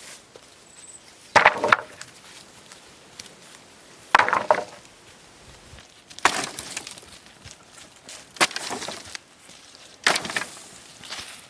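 Five separate strokes of a hand tool, about two seconds apart, each a short crunching or chopping hit.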